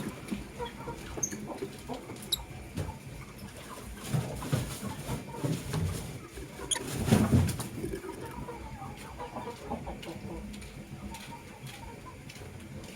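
Lovebirds in a cage making soft chattering, clucking calls, with small clicks and scratches from their movements, a few thin high peeps, and a louder flurry about seven seconds in.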